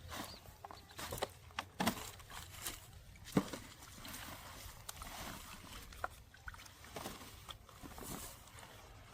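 Shallow water sloshing and splashing in irregular bursts, with sharper splashes about two seconds and three and a half seconds in.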